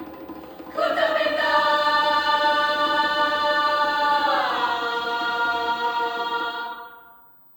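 High school choir singing a loud, held chord that swells in about a second in, slides down to a lower chord around the middle, then dies away near the end.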